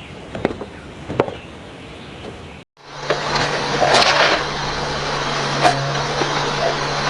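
Sharp knocks about one every three-quarters of a second, then, after a short break, a steady low hum with a noisy wash and occasional clicks.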